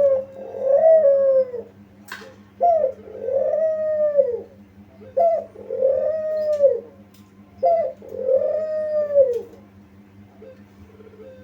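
Kuter (spotted dove) cooing in four repeated phrases, each a short note followed by a longer, arching coo, about every two and a half seconds. A steady low hum runs underneath.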